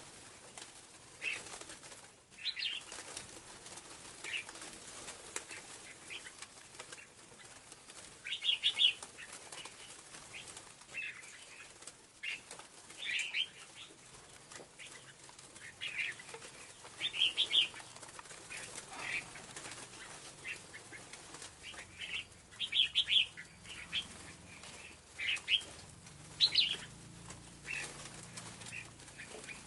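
Scarlet-backed flowerpecker calls: short, sharp, high-pitched chirps repeated at irregular intervals, some in quick pairs or clusters, as a lure call.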